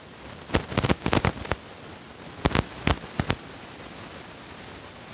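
Train running on the line, a steady rumble broken by two clusters of sharp clacks from the wheels on the track, heard from inside the carriage.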